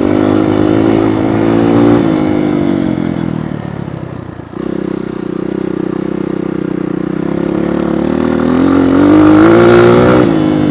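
Dirt bike engine running under the rider's throttle: the revs sag for a couple of seconds, jump back up about four and a half seconds in, climb steadily, then drop off near the end.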